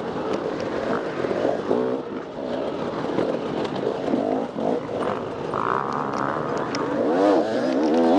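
Off-road dirt bike engine revving up and down under varying throttle, its pitch repeatedly rising and falling, with bigger swings near the end.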